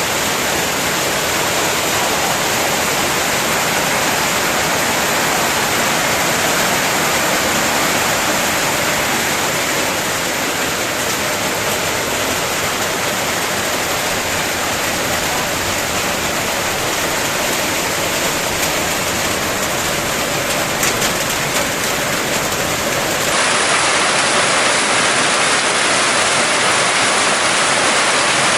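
Heavy rain pouring down in a steady, dense hiss. About 23 seconds in, the sound changes abruptly and gets a little louder.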